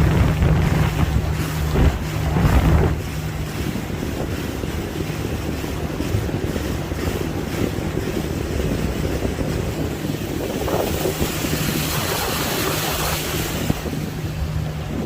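Tour boat motoring along, its engine a steady low hum under wind buffeting the microphone. The buffeting is heaviest for the first three seconds. About eleven seconds in, a rushing hiss of wind and water swells for a few seconds.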